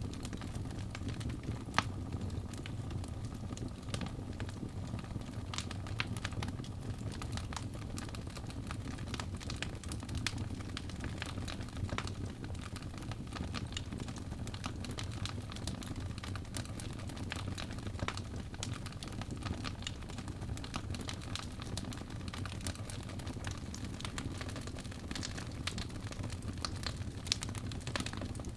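Crackling fire: a steady low rumble of burning with frequent irregular sharp pops and crackles.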